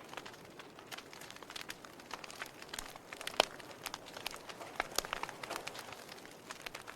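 Wood fire burning in a fireplace: the logs crackle and pop at irregular intervals over a soft hiss, with one sharper pop about three and a half seconds in.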